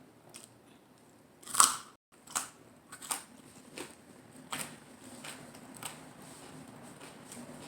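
Crisp, wet crunching of a lettuce-leaf salad wrap being bitten and chewed close to the microphone. There is one loud crunch about a second and a half in, then a steady chewing rhythm of crunches about every 0.7 s that grows fainter.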